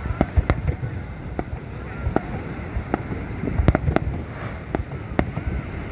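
Fireworks bursting overhead, about a dozen sharp bangs and pops at irregular intervals over a steady low rumble.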